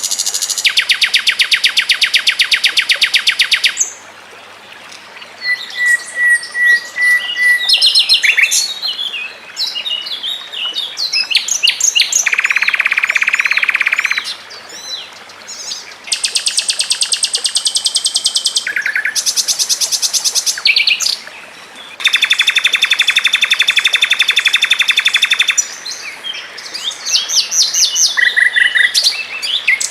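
Songbird song from a mix of icterine warbler, sikatan londo and canary: long, very fast trills of rapidly repeated notes lasting a few seconds each, alternating with varied quick chirps and a short level whistle.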